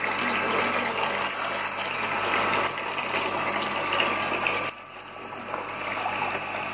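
Water running and splashing into a container, with the steady hum of the repaired half-HP peripheral water pump underneath. The flow drops off sharply nearly five seconds in, then builds back up. The pump runs quietly, its bearing noise gone.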